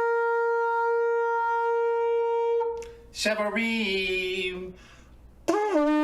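Shofar sounding the tekiah, one long steady blast that ends about two and a half seconds in. A voice calls "Shevarim", and near the end the first of the shevarim's broken blasts begins, sliding up into a steady note.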